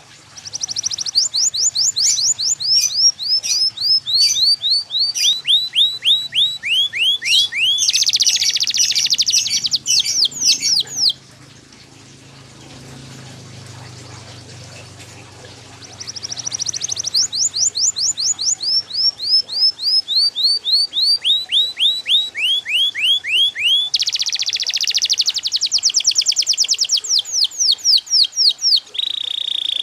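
Yellow domestic canary singing two long song phrases of repeated down-slurred whistled notes. Each phrase is broken by a fast buzzy trill, and there is a pause of about five seconds between the phrases.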